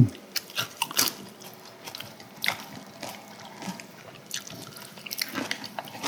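Close-miked eating of ginseng chicken soup: wet chewing and squishing, with scattered small clicks of utensils. A brief thump at the very start.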